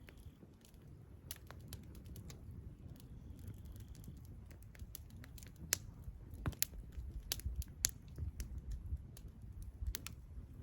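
Irregular sharp clicks and crackles, some single and some in quick pairs, over a low steady rumble.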